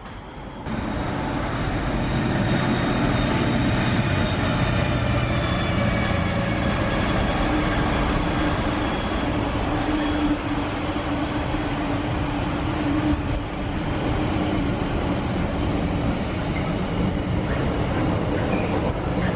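A train running along the track close by: a steady rumble of wheels on rail, with a faint whine that slowly falls in pitch and a steady hum coming in midway.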